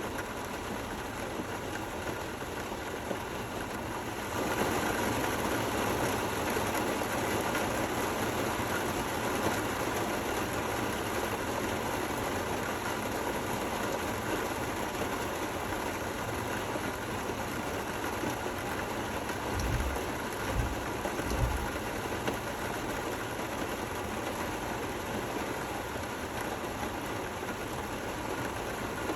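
Steady rainfall, heavier from about four seconds in. A few low thumps about two-thirds of the way through.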